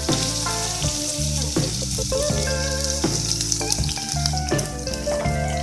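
Crushed garlic and ginger sizzling as they fry in hot coconut oil in a nonstick pan, a steady hiss. Background music with bass notes plays along.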